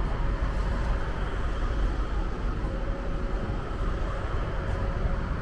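Passenger train running, heard from inside the carriage: a steady low rumble with a faint steady hum.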